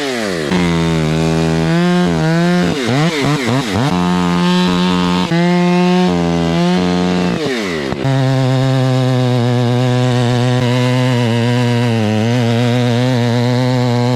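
Large gas chainsaw being revved up and down several times, then held at full throttle at a steady high pitch from about eight seconds in, dipping briefly near twelve seconds.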